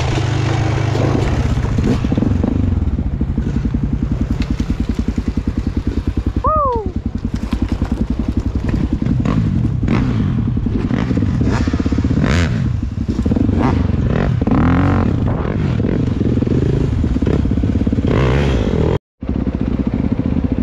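Dirt bike engine running while being ridden over rough trail, with clatter and scrape from the bike over the ground. A short falling squeak comes about six and a half seconds in, and the sound cuts out for a moment near the end.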